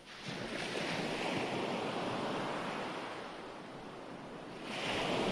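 Recorded ocean surf used as background sound. One wave washes in just after the start and slowly ebbs, then another rolls in about four and a half seconds in.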